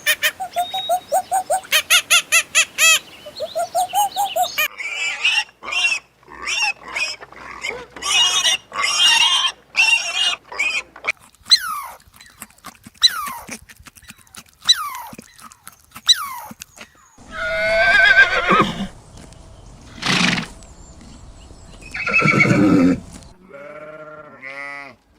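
Farm animal calls one after another: a fast run of repeated calls for the first few seconds, then many short high chirps, then several loud drawn-out calls, and a goat bleating near the end.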